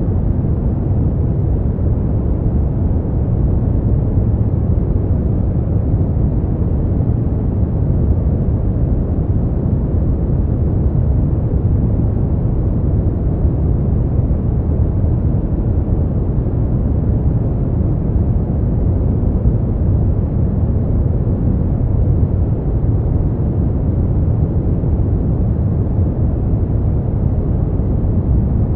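Steady, unchanging noise from a sleep-sound track, deep and rumbling with little high hiss, like brown noise.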